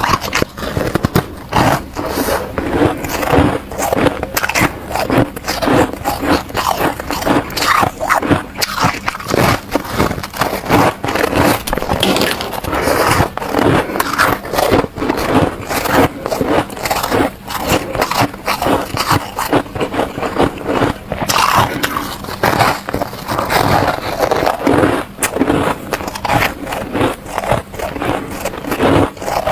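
Close-miked crunching and chewing of soft freezer frost, a steady run of quick crisp bites and scrapes with no pause.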